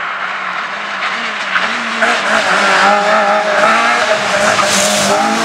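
Race car engine running hard, its pitch wavering up and down as the revs rise and fall, with tyre skid noise.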